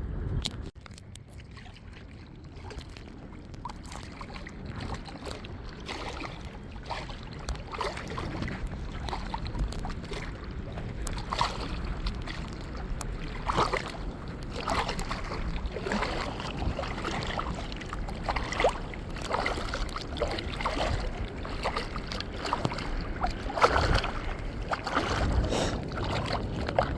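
Shallow seawater sloshing and splashing, with frequent irregular knocks.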